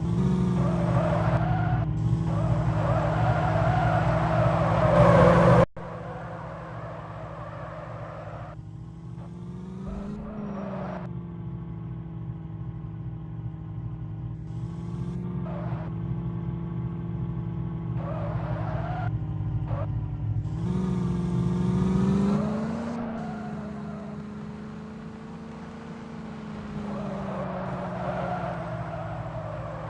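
Tractor engine running steadily, with a few brief rises in pitch as it is revved. It drops suddenly in loudness about six seconds in.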